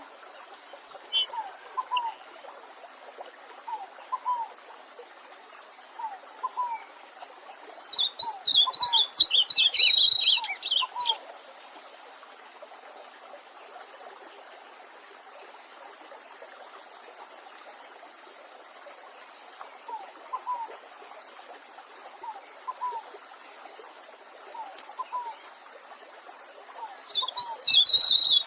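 Wild songbirds singing: bursts of rapid high-pitched song about eight seconds in and again near the end, over a lower call note repeated about every second and a bit, with a faint steady stream in the background.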